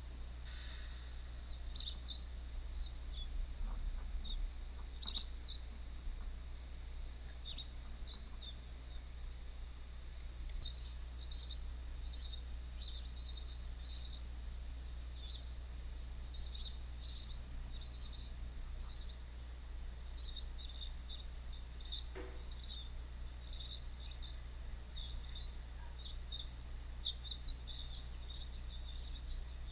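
Birds chirping in many quick, short, high calls, sparse at first and much busier from about a third of the way in, over a steady low hum.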